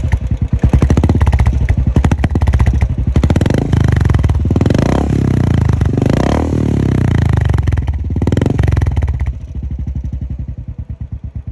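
Royal Enfield motorcycle with a Royal Enfield genuine slash-cut silencer, dB killer removed, being revved several times. The revs rise and fall. About nine seconds in it drops back to a steady, even idle beat.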